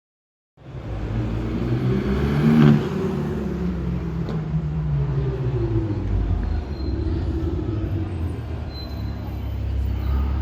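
Supercar engine running with a deep rumble, the revs rising and falling briefly about two seconds in, then settling into a steady low rumble.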